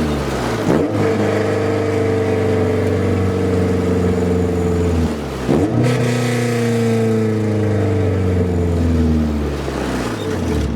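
A car engine running under way. Its note dips sharply and recovers twice, about a second in and again about halfway through, then slowly falls toward the end.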